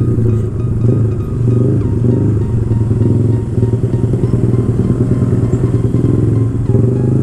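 Single-cylinder 150 cc sport motorcycle engine running at low, steady revs as the bike rolls slowly in heavy traffic. From about halfway it drops to a choppier, uneven beat as the bike comes almost to a stop.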